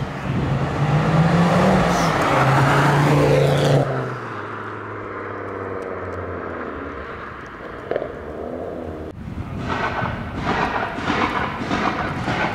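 A car engine accelerating hard, its note rising and then holding, until it falls away about four seconds in; a quieter engine keeps running after that. After a sudden change about three-quarters of the way through, a run of short, rapid bursts follows, about two a second.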